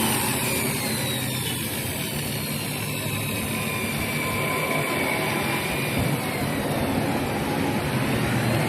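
Electric drill running steadily, spinning a small sewing-machine motor armature while its commutator is polished clean, with a faint whine that slowly shifts in pitch.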